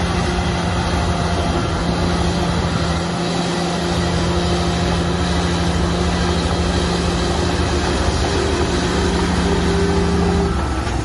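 Heavy earthmoving machine's diesel engine running steadily under load, with a constant low hum. The note changes about ten and a half seconds in.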